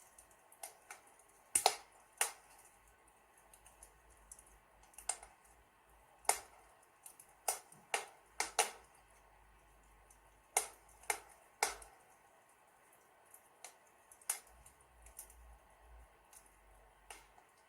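Wood fire in a fireplace crackling: irregular sharp pops and snaps, sometimes in quick pairs, sometimes a few seconds apart.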